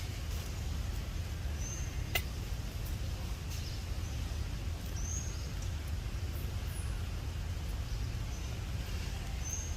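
Steady low rumble, like wind or distant traffic, with three faint, short high chirps about four seconds apart and a single sharp click about two seconds in.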